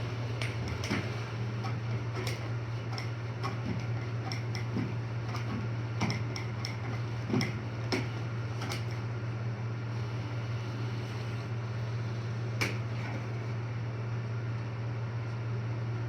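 Air hockey table's blower running with a steady hum, with irregular sharp clacks of the puck striking mallets and rails; the clacks come thick and fast for the first several seconds, thin out, and one loud strike lands about three-quarters of the way through.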